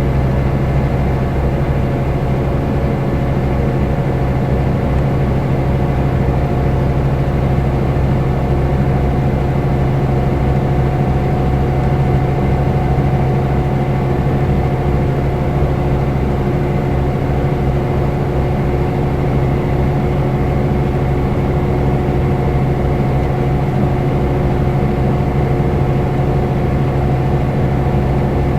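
A Scania K320 IB coach's engine running steadily at an unchanging pitch: a constant low hum with an even haze of running noise, no revving or gear changes.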